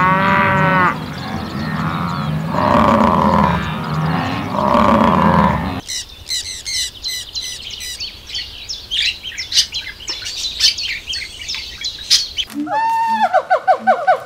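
Cattle mooing, several long calls, for the first half. Then it cuts suddenly to budgerigars chirping and chattering with many quick high chirps. Near the end a different call repeats in short steps.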